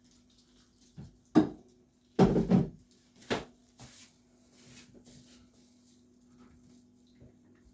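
A handful of knocks and a short clatter of hard objects over a low steady hum: one sharp knock, then a cluster of knocks half a second long, then two smaller ones.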